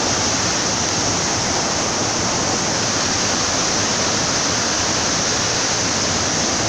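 Waterfall rushing close by: a steady, loud roar of falling water.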